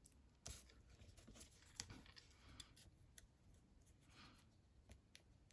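Near silence with faint paper handling: a few soft clicks and rustles, the two sharpest about half a second and nearly two seconds in.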